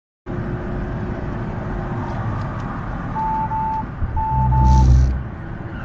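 Vehicle driving noise picked up by a dashcam: steady road and engine noise, with two pairs of short electronic beeps in the middle and a louder low rumble lasting about a second near the end.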